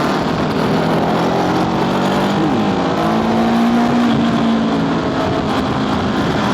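Honda scooter engine running under way on a twisty mountain road: its pitch climbs a little, drops sharply about two and a half seconds in as the throttle closes, then holds steady.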